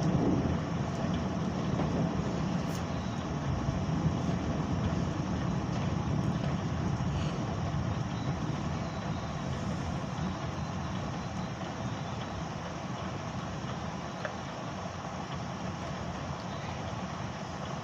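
Thunder rumbling low and slowly dying away.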